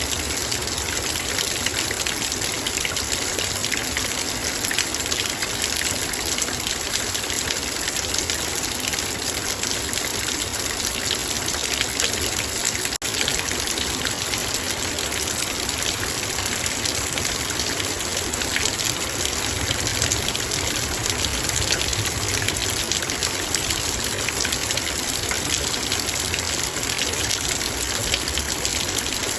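Heavy rain falling steadily on a metal bowl: a dense, constant patter of drops. There is a split-second dropout about 13 seconds in.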